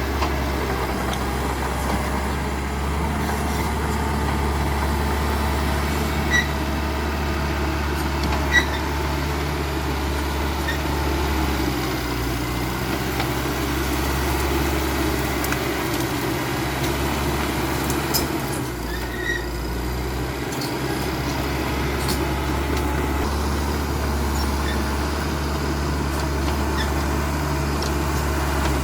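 Caterpillar D5K XL crawler bulldozer's diesel engine running steadily under work, with a few sharp knocks from the machine, and the engine note easing briefly about two-thirds of the way through.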